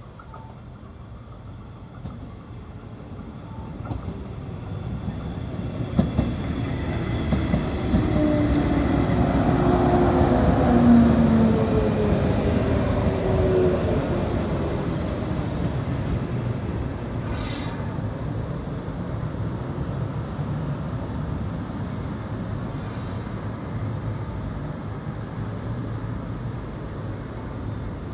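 A 115-series electric multiple-unit train pulls into a station. The rumble of its wheels on the rails builds to a peak about ten seconds in, with whining tones that fall in pitch as it slows. It then settles into a steady running hum as it draws to a stop.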